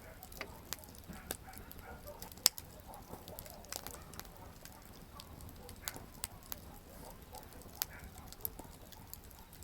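Wood campfire crackling: irregular sharp snaps and pops from the burning firewood, with one louder pop about two and a half seconds in.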